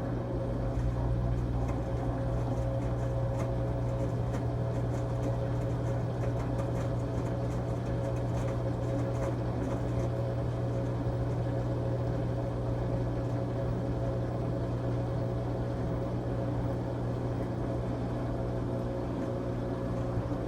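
LG Tromm WD-CR101C front-loading drum washing machine running in its quick-wash cycle: a steady mechanical hum with a low drone and a fainter higher tone, holding even throughout.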